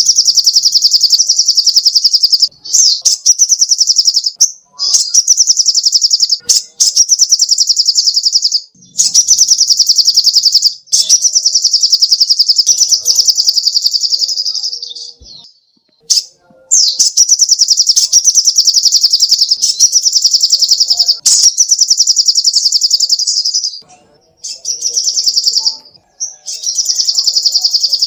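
Sogok ontong (little spiderhunter) singing: loud, very fast high-pitched trills in long phrases of a few seconds each, broken by brief pauses.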